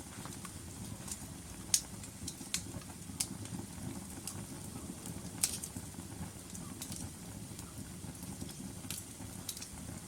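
Log fire in a fireplace burning with a low steady rumble and irregular sharp crackles and pops, the two loudest about two seconds and five and a half seconds in.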